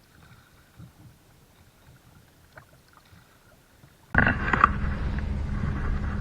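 Canoe out on the loch: a few faint knocks, then about four seconds in a sudden switch to loud, steady rumbling noise with a low hum.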